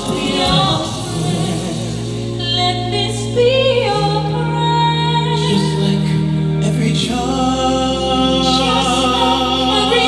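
Vocal group singing close harmony in long held chords, the chord changing about four and seven seconds in.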